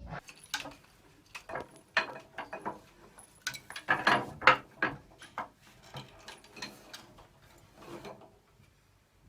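An irregular run of sharp clicks and knocks, some a fraction of a second apart and some further apart, dying away about eight seconds in.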